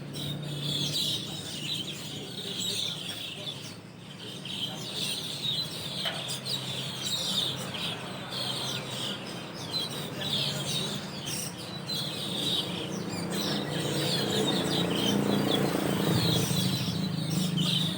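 A flock of Asian glossy starlings chattering, with many short high chirps overlapping without a break. A low steady hum runs underneath and grows louder near the end.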